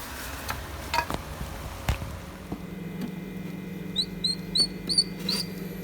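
A small bird giving five quick, high chirps in a row, about three a second, over a steady low hum. A couple of soft knocks come earlier.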